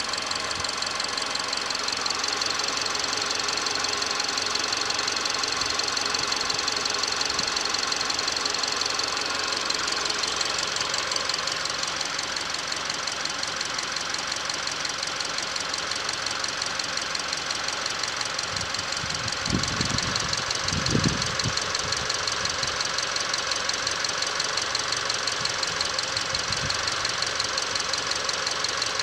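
Subaru Outback 2.5-litre flat-four petrol engine idling steadily, with a fast, even ticking over its run. About two-thirds of the way through come a few brief low thumps.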